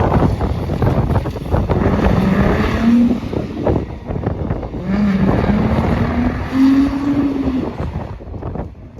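Car engine revving hard under a burnout, its pitch climbing as the revs rise twice, with a heavy rushing noise over it, then easing off near the end.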